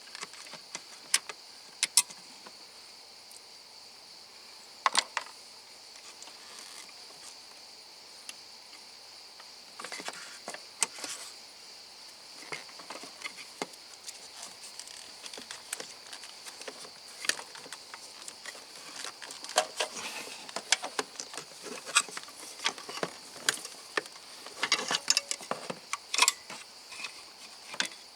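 Irregular sharp clicks and clatter of hand tools and car parts being handled during work on a Toyota Corolla's engine control unit, coming in clusters that grow busier in the second half. A steady high-pitched background tone runs underneath.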